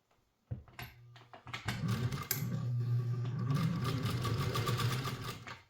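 Singer 201 sewing machine starting about half a second in and speeding up. It then runs fast and steady with a rapid needle clatter, stitching through thick layers of webbing, foam and elastic, and stops just before the end.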